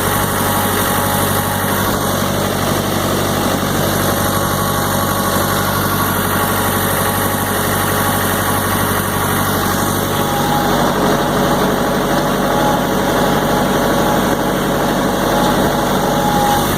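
Tractor engine running steadily, with a constant vibrating drone.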